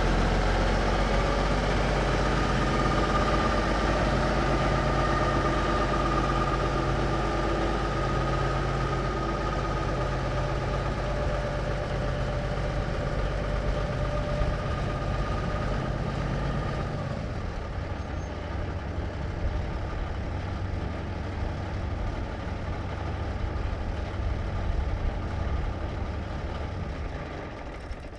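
1954 big rig truck's engine running as it backs away, with a whine above the engine note for much of the time. The engine note changes about two-thirds of the way through and the sound slowly fades out near the end.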